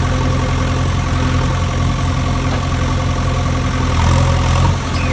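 An engine idling steadily: an even, low hum that holds the same pitch and level throughout.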